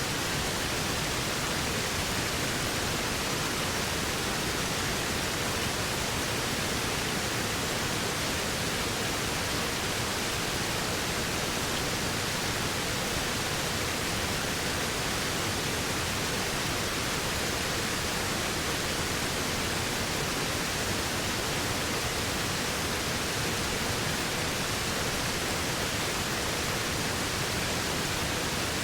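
Steady, unbroken rush of a waterfall: an even wash of falling-water noise with no changes or separate events.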